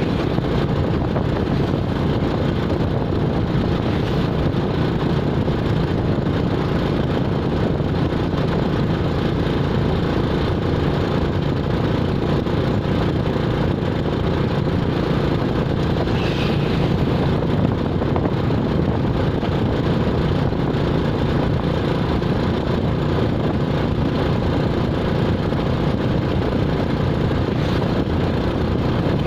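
A motor vehicle's engine running steadily with continuous low rumbling road noise, with a brief high-pitched sound about halfway through.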